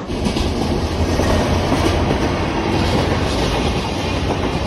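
Coaches of the Okuizumo Orochi trolley train rolling across a railway bridge: a steady, loud rumble of wheels on rail.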